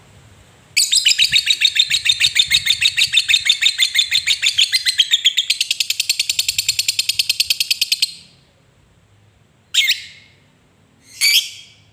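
Lovebird's long 'ngekek' chatter: a rapid, unbroken string of sharp, shrill notes lasting about seven seconds, followed by two short single calls near the end.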